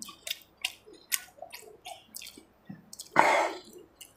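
Close-miked open-mouth chewing with wet lip smacks, about four a second. About three seconds in comes one brief, louder burst of noise.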